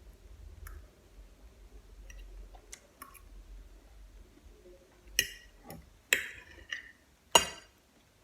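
Eating sounds during a meal of tomatoes and mozzarella: faint small clicks, then four louder sharp clicks and clinks in the second half, each dying away quickly.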